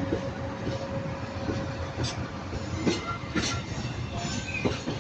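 Convoy of Class 66 diesel-electric locomotives running under power, their EMD two-stroke V12 engines giving a steady low rumble. A few sharp clicks from the wheels on the rails come about 2, 3 and 3.5 seconds in.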